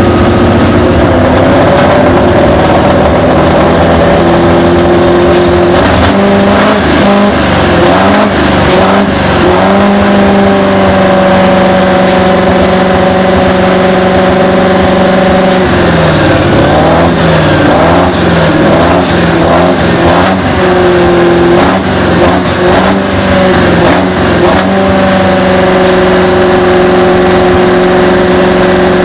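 Pulling tractor's engine running flat out, very loud, its pitch held high and steady, with two stretches where the revs surge up and down rapidly.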